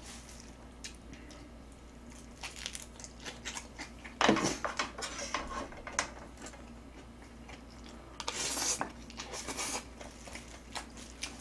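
Close-up eating sounds: biting and chewing of cabbage kimchi and Chapagetti noodles, with scattered small clicks of chopsticks against the pan. There is a louder noisy burst about four seconds in and another, hissier one about eight seconds in.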